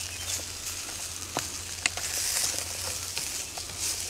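Diced potatoes, sausage and vegetables sizzling as they fry in a pan. They are stirred with a wooden spatula that gives a few sharp clicks against the pan.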